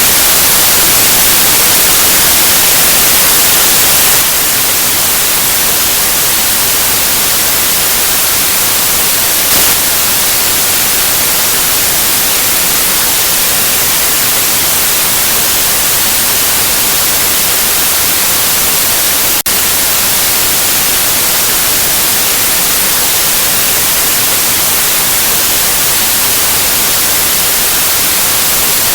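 Steady white noise: an even, bright hiss, with a momentary dropout about two-thirds of the way through.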